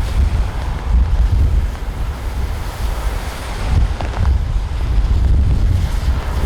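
Strong wind buffeting the microphone in gusts, over a steady rushing noise.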